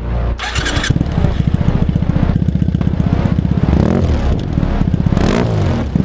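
2014 Triumph Thruxton 900's parallel-twin engine running through an aftermarket D&D exhaust, starting about half a second in. Its pitch shifts up and down in the last couple of seconds as the throttle is worked.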